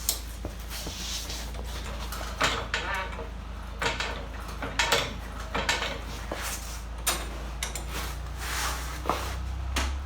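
Irregular metallic clanks, knocks and clatters of hand tools and bolt hardware being handled while fitting suspension lift brackets, over a steady low hum.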